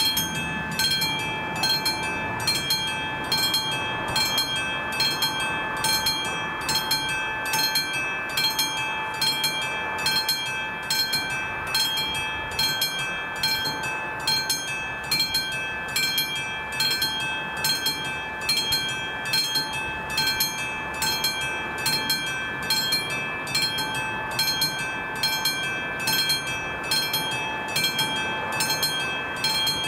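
Electronic warning bell of an AŽD 71 level crossing ringing steadily, a little more than one stroke a second, each stroke leaving a sustained ringing tone.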